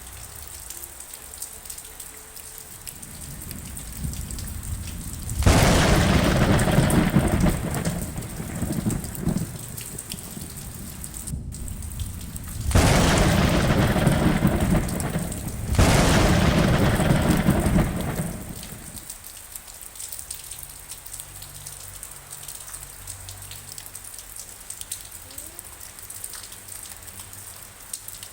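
Steady rain falling, broken by three rolls of thunder: one starting about five seconds in and lasting about three seconds, then two more back to back around the middle, each swelling up and fading.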